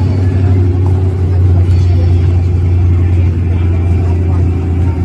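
Car engine idling: a steady, loud low rumble.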